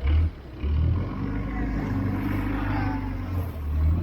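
A boat's engine running steadily, with loud low rumbling surges at the start, about a second in, and again near the end.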